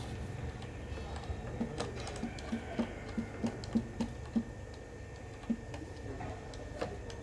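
Light clicks and taps, several a second through the middle stretch and sparser later, over a low steady rumble.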